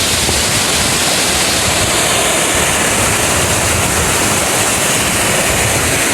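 A waterfall rushing, a loud, steady roar of falling water.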